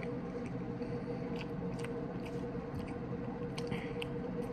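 A person chewing air-fried chicken breast, with small mouth clicks and smacks scattered through, over a steady low hum.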